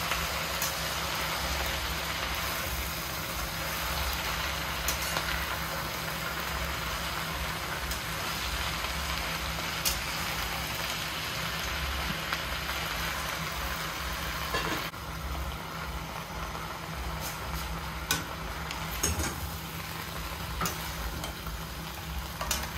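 Napa cabbage leaves sizzling as they are stir-fried in a hot pan, with a spatula now and then scraping and knocking against the pan, over a steady low hum. The sizzle eases a little about two-thirds of the way through.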